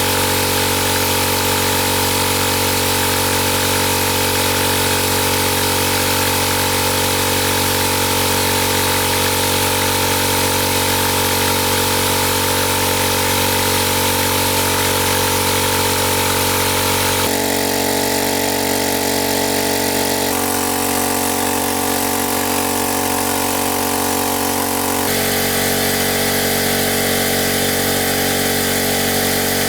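A small engine running steadily at a constant speed. Its tone shifts abruptly three times, where the recording is cut.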